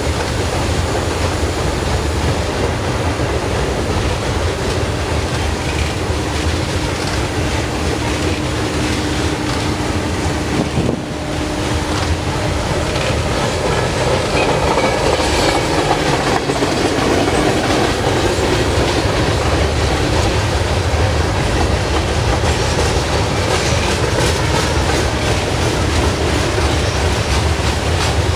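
Freight cars of a Norfolk Southern mixed freight train rolling past, a steady loud rumble with wheels clacking over the rail joints.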